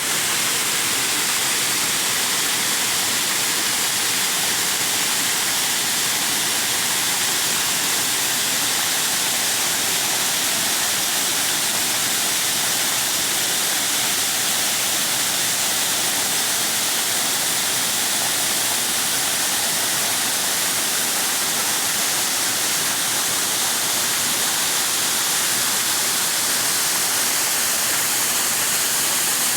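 Nabegataki waterfall: falling water making a steady, unbroken rush with a strong hiss in it.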